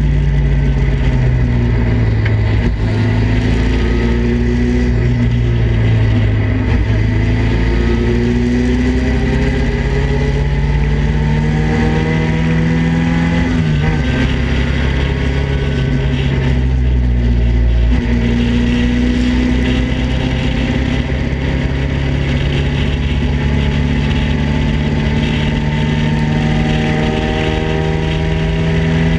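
Datsun Roadster race car's four-cylinder engine running hard under full throttle, its pitch climbing slowly, with one gear change about halfway through, heard from the open cockpit with wind rush over it.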